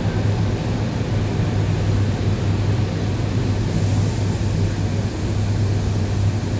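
ED9E electric multiple-unit train running, heard from inside a carriage: a steady low hum over the rumble of the wheels, with a brief hiss about four seconds in.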